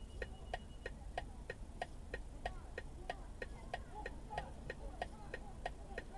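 Steady, rapid mechanical ticking, about three ticks a second, faint and even throughout.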